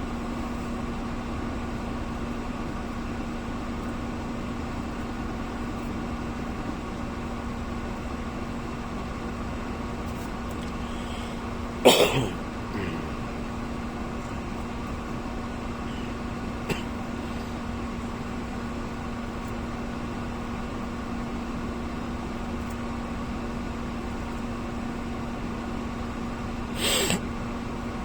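A steady mechanical hum with a constant low tone, broken twice by a short, loud noise: once about twelve seconds in and once near the end.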